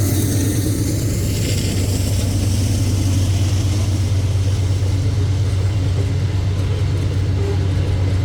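Diesel locomotive engine running with a steady low drone as a freight train goes by, with higher wheel-and-rail hiss that fades out about halfway through.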